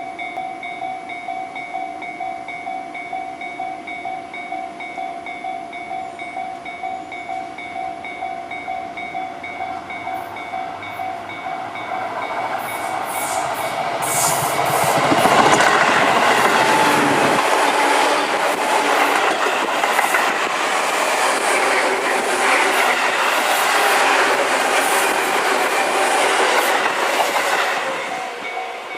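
Level-crossing alarm ringing in a steady, repeating pulse while a ten-car Tobu 10030 series electric train approaches and passes at speed. The train grows loud about twelve seconds in, and its wheels clatter over the rail joints for the rest of the pass before it fades at the very end.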